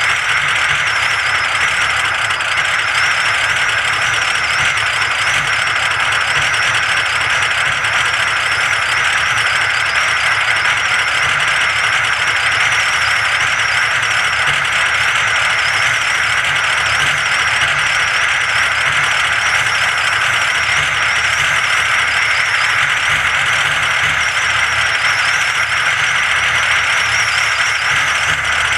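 Diesel engine idling steadily with a clattering rattle in a deep-frost cold start, and a faint wavering whine above it.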